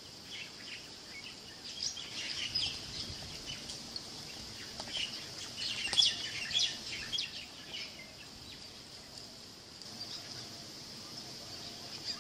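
Small birds chirping and calling, many short chirps coming thickest in the middle, over a steady high-pitched hiss. One sharp click about halfway through is the loudest sound.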